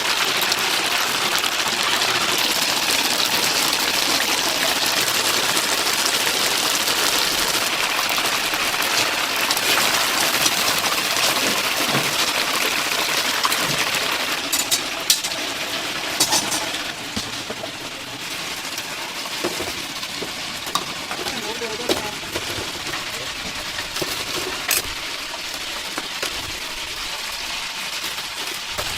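Chicken deep-frying in a vat of hot oil: a loud, steady sizzle that eases off somewhat after about fifteen seconds. Sharp metal clinks and clatter sound over it now and then.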